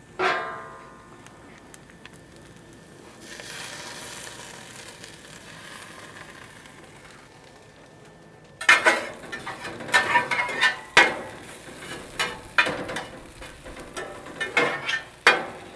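Vegetables and tomato paste sizzling in a roasting pan on a gas grill. From about halfway, a spatula scrapes and stirs them against the bottom of the pan in many quick strokes.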